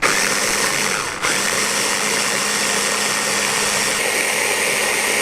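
Electric blender running, puréeing a sauce of garlic, herbs and spices to a smooth mass. It drops out briefly twice in the first second or so, then runs steadily and winds down at the end.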